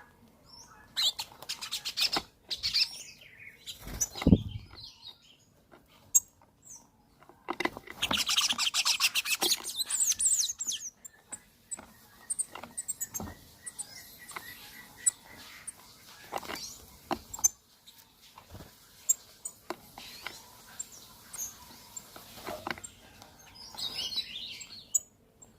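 Birds chirping and calling in short, irregular bursts, with a dense flurry of high sound about eight seconds in that lasts two or three seconds.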